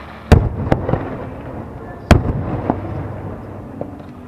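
Fireworks shells bursting: a loud bang about a third of a second in and another just after, a big one about two seconds in, then a softer one, each followed by a rumbling echo.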